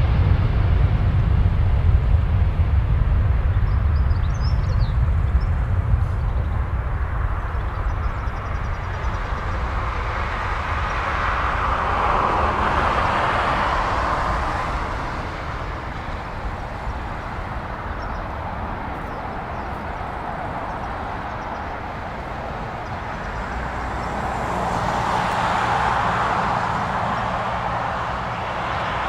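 Jet airliner engines at take-off thrust. A deep rumble fades over the first half, then the roar swells twice.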